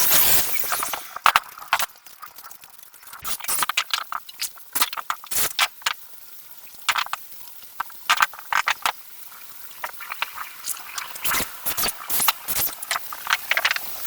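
Irregular light clicks, taps and scraping, as of small pieces being handled and worked by hand, with a brief louder rustle at the start.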